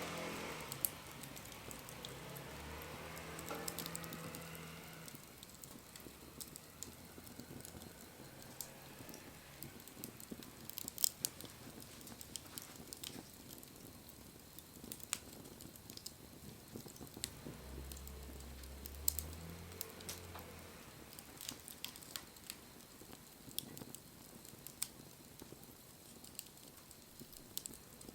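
Wood fire crackling softly, with scattered sharp pops and snaps. A faint low rumble underlies it near the start and again about two-thirds of the way through.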